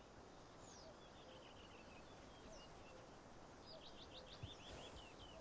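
Faint calls of a Eurasian dotterel: short, high, downward-slurred notes here and there, with a quick run of them about four seconds in, over a faint outdoor hiss.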